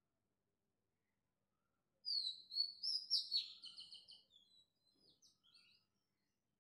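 A small bird chirping: a quick run of high twittering notes, some falling in pitch, lasting about two seconds and starting about two seconds in. The rest is near silence.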